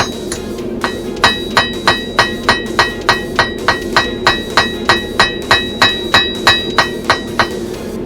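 Blacksmith's hand hammer striking steel on an anvil, a steady run of about three ringing blows a second. The blows are lighter for the first second, then full strength, and they stop shortly before the end. A steady low drone runs underneath.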